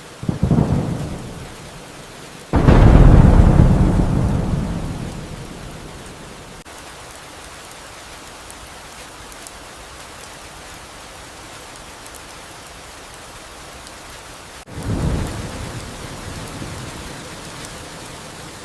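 Steady rain with three claps of thunder: a short one right at the start, the loudest a sudden crack a few seconds in that rumbles away over about three seconds, and another about fifteen seconds in that fades more gently.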